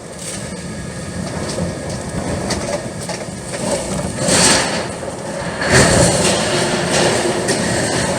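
A vehicle running with a steady rumble and hiss, with two louder surges about four and a half and six seconds in.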